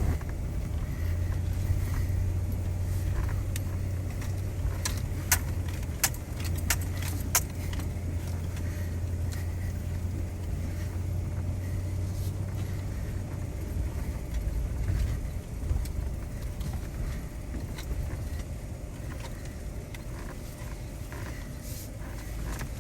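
Pickup truck driving, heard from inside the cab: a steady low road-and-engine hum, with a handful of sharp clicks and rattles about five to seven seconds in.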